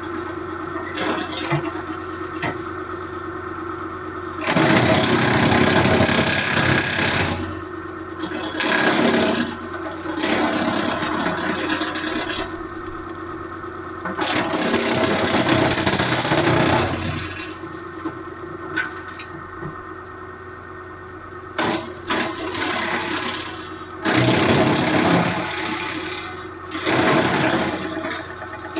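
Wood chipper's engine running steadily, broken by several louder noisy stretches of a few seconds each as material goes through the chipper.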